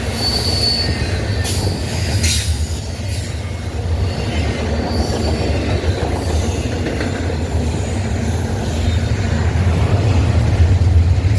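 Train rolling past with a steady low rumble of wheels on rail. A brief high-pitched wheel squeal sounds near the start, and a few sharp clanks come about two seconds in.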